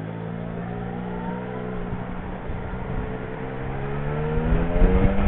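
Yamaha Niken's three-cylinder motorcycle engine running at a steady cruise, its pitch sagging slightly and then rising as the rider opens the throttle near the end, with wind noise growing.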